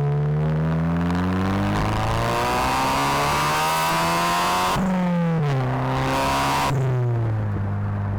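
Turbocharged 2.0-litre four-cylinder of a VW Mk7 GTI, fitted with a 3-inch downpipe and a non-valved cat-back exhaust, accelerating hard. Its note climbs in pitch, drops sharply at gear changes about two and five seconds in, then falls away as it eases off near the end.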